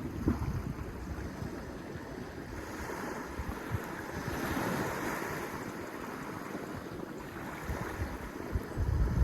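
Sea waves washing in, one wash swelling and fading about halfway through. Wind buffets the microphone in low gusts, most strongly near the end.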